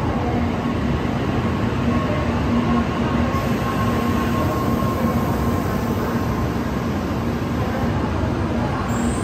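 N700-series Shinkansen train pulling into the station, its cars passing close by: a steady rumble of wheels and running gear with a faint steady hum over it.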